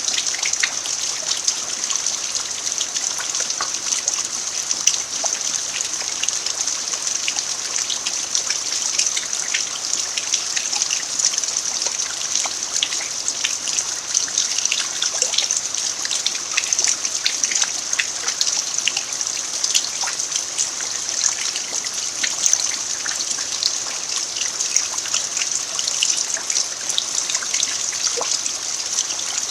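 Steady rain falling on a dirt yard: an even hiss dotted with many small ticks of individual drops.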